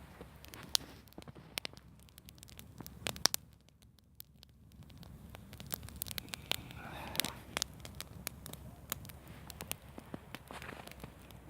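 Campfire crackling: irregular sharp pops and snaps of burning wood, briefly quieter about a third of the way in.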